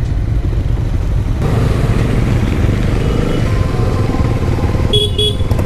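Motorcycle on the move: a steady rumble of wind and engine. Two short high beeps near the end.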